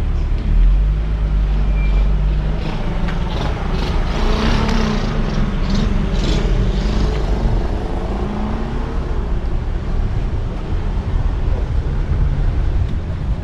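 BMW Z4 on the move: steady engine and road rumble, with a louder rush of noise for a few seconds in the middle.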